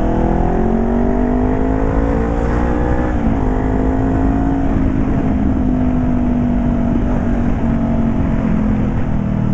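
2018 Honda CBR500R's parallel-twin engine with the exhaust baffle removed, rising in pitch for about three seconds under acceleration, then dropping sharply as if shifting up a gear and running fairly steadily. Wind buffets the microphone with a low rumble throughout.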